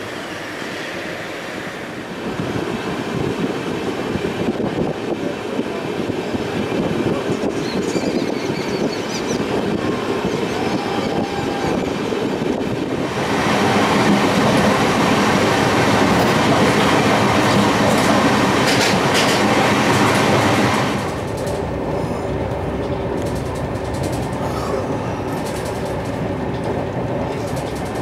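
LHB double-decker passenger coaches running at speed: a steady rumble of wheels on rail with clickety-clack over the rail joints, growing louder and harsher for several seconds around the middle.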